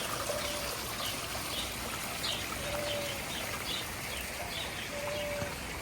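Steady rain hiss with small birds chirping over it, a dozen or so short high chirps scattered through, and a few brief low whistled notes.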